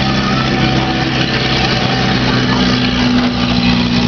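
Race car engines running steadily, several engine tones at once, one rising slightly in pitch about two seconds in.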